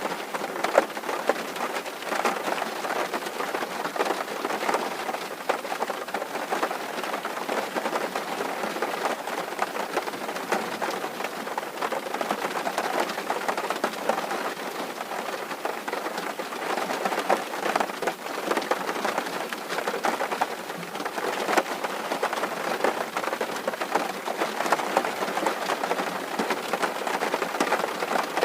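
Rain falling steadily on a tin roof, a dense patter of countless drops.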